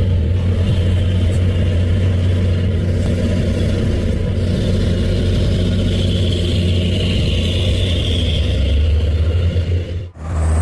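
Heavy truck engine running steadily under load, a deep low drone that dips out briefly near the end.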